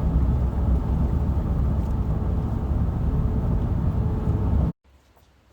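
Steady road and engine rumble inside a moving car's cabin, cutting off suddenly near the end.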